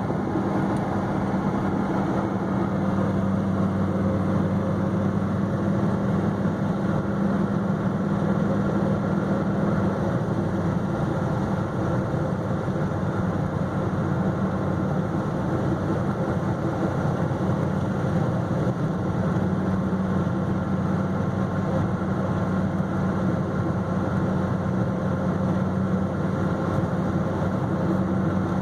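2010 Dodge Viper SRT10's 8.4-litre V10 running at a steady cruise with tyre and road noise, heard from inside the cabin while driving.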